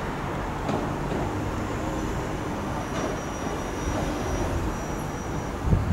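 Southeastern Class 375 electric multiple unit approaching: a steady low rumble with a thin high whine through the middle, the rumble growing louder just before the end as the train draws nearer.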